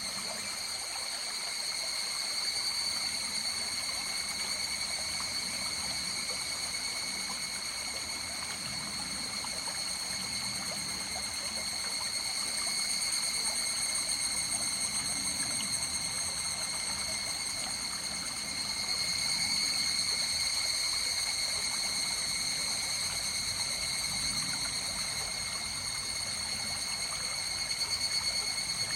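River water flowing and trickling over stones, a steady rushing with small swells in level. A constant high-pitched ringing at several pitches sits over the water throughout.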